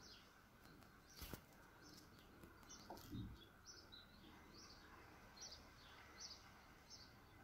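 Near silence with small birds chirping faintly, short high chirps about once or twice a second. A brief click about a second in and a soft low thump about three seconds in.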